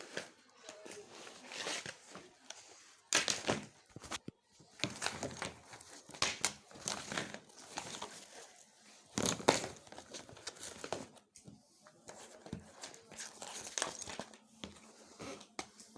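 Irregular crinkling and rustling of material being handled, with louder scraping strokes about three and nine seconds in.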